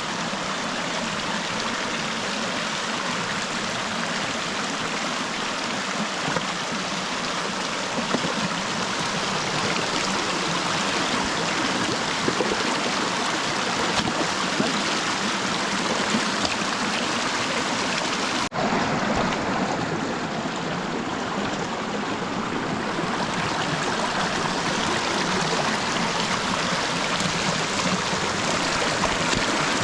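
Steady rushing of flowing river water, with a brief sudden dropout about two-thirds of the way through.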